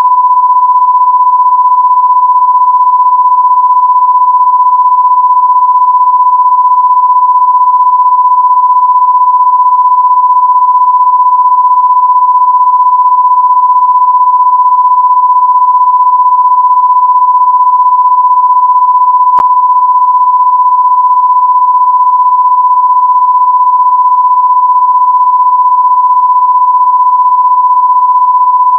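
A loud, steady, pure electronic test tone, like a 1,000-hertz test beep, held unbroken at one pitch, with a single faint click partway through.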